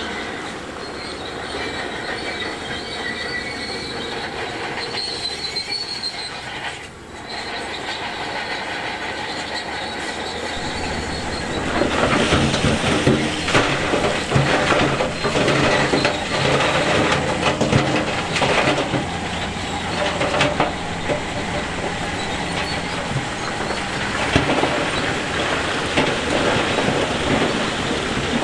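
Shantui DH17C2 crawler bulldozer working, its steel tracks squealing and clanking. About twelve seconds in, the engine pulls harder and the sound gets louder, with a dense clatter of knocks as it pushes stones.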